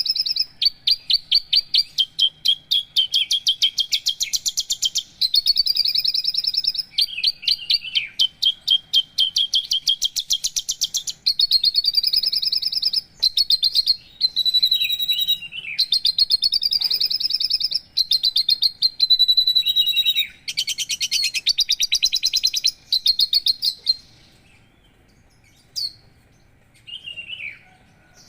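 Javan bush lark (branjangan) singing: a long run of fast trilled and whistled phrases with short breaks between them. It stops about 24 seconds in, leaving only a couple of brief calls near the end.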